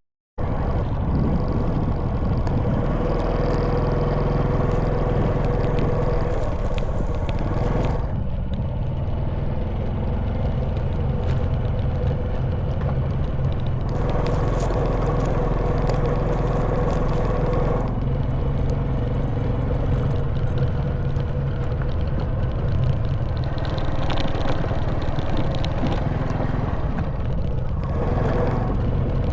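Honda Wave 110cc single-cylinder four-stroke motorbike engine running steadily under way, with wind and the clatter and scrape of riding over a rough stone road. The sound drops out for a split second at the very start.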